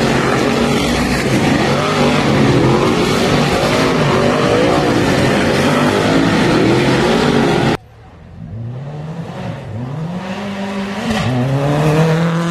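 Race car engines running flat out, loud and dense, until a sudden cut about eight seconds in. After it a race car accelerates through the gears: the engine pitch climbs, drops at each shift and climbs again, growing louder near the end.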